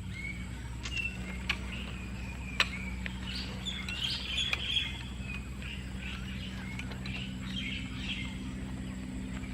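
Birds chirping, with a steady low hum underneath and a few sharp clicks.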